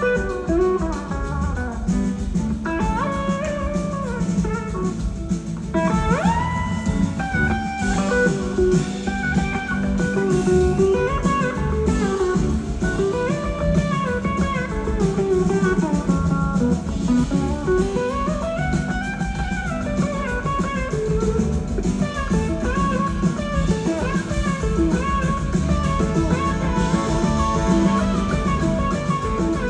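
Live band music: an electric slide guitar solo, its notes gliding smoothly up and down in pitch, over a drum kit and bass.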